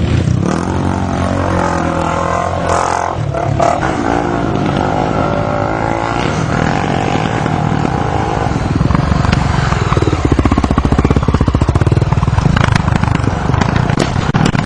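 Enduro motorcycles revving and passing, the engine pitch rising and falling with the throttle. In the second half the engine sound gets louder, with a falling pitch about ten seconds in.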